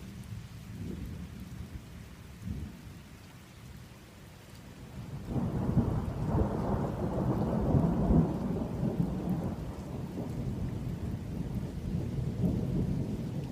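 Thunder rumbling through a rainstorm. It starts low and faint, swells suddenly into a loud, long roll about five seconds in, peaks around eight seconds, then eases into a lower, continuing rumble.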